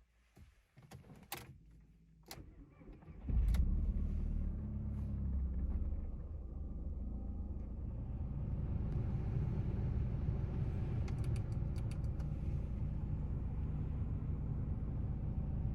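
A few clicks, like keys turning in the ignition, then the Audi TT's 1.8-litre turbocharged four-cylinder engine catches about three seconds in. It runs at a raised idle at first and settles to a steady idle about six seconds in.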